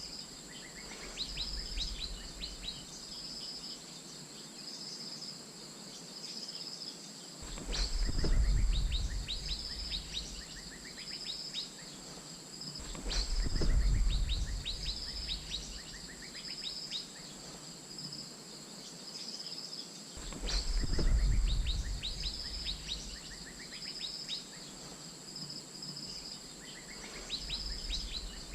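Asian fairy-bluebird calls: runs of short, sharp, falling notes repeated again and again, over a steady pulsing insect drone. Three low rumbles, about 8, 13 and 21 seconds in, are the loudest sounds.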